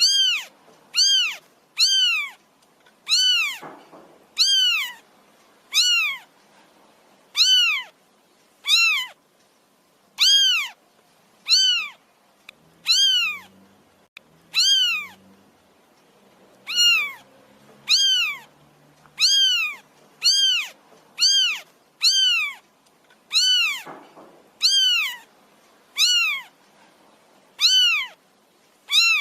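Kitten meowing over and over, about one short, high-pitched meow a second, each rising and then falling in pitch.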